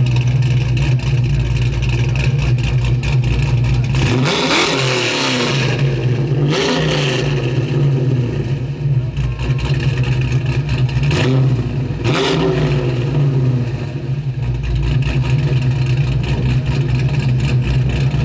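1987 Buick Grand National's turbocharged 3.8-litre V6, built with a larger turbo and a new cam, idling steadily. It is revved briefly three times, about four and a half, six and a half and twelve seconds in.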